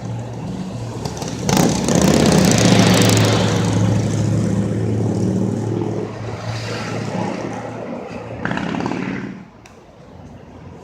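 Fire engine driving past with its engine running: it swells loud about a second and a half in, surges again near the end, then drops away sharply.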